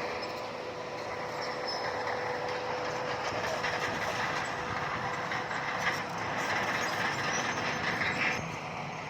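Bulldozer running, its steel crawler tracks clanking and squealing over a steady engine whine. The squeal grows louder about three and a half seconds in and cuts off sharply near the end.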